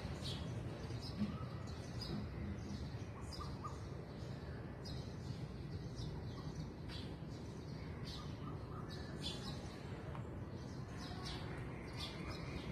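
Birds chirping, with many short calls scattered throughout, over a low steady background rumble.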